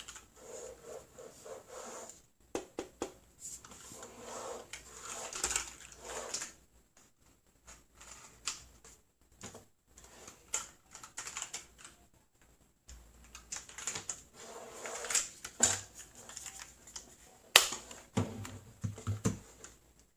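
Irregular plastic clicks and clacks from a Redragon K556 mechanical keyboard being worked by hand, coming in short clattering bursts with pauses between them and a few duller knocks near the end.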